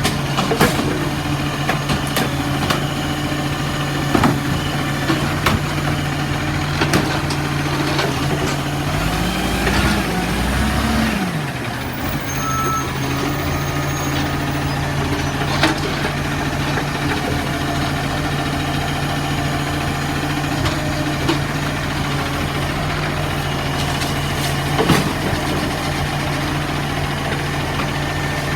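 Garbage truck engine idling steadily. About nine seconds in it revs up and falls back down over two seconds or so, with scattered clunks and knocks throughout.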